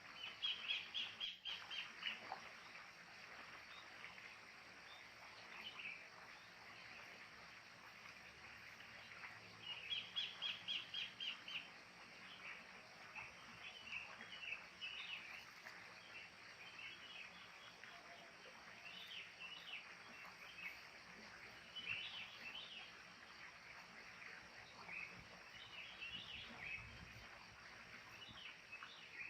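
Wild kingfishers and sooty-headed bulbuls calling: two rapid series of about ten repeated notes, one near the start and one about ten seconds in, then scattered short chirps over a faint outdoor background.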